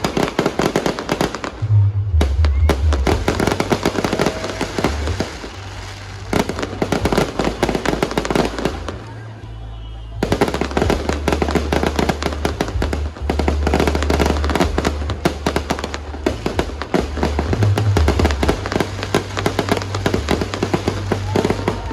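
Fireworks going off in rapid, dense volleys of bangs and crackles, easing briefly near the start and again about halfway through. Music with a deep bass plays underneath.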